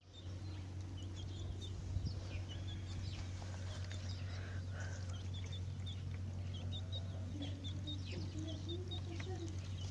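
Chickens clucking and small birds chirping, with short high chirps throughout and low clucks coming more often in the second half, over a steady low hum.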